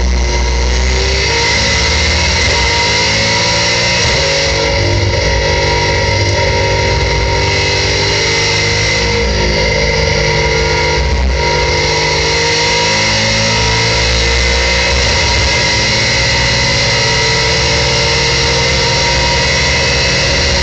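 Race-prepared 2015 Ford Mustang's engine at full throttle, heard from inside the cockpit, its note climbing in pitch through the gears. The rise breaks off at upshifts about four, nine and eleven seconds in.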